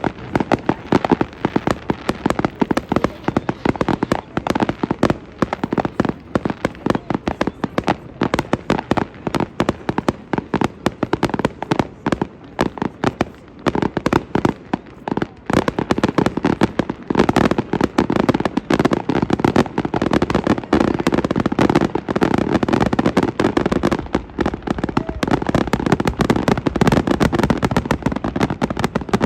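Fireworks display: a dense, rapid barrage of bangs and pops that grows thicker and louder about halfway through.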